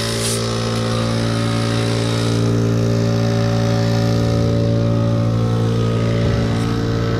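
An engine running steadily at idle, a constant low hum with no revving.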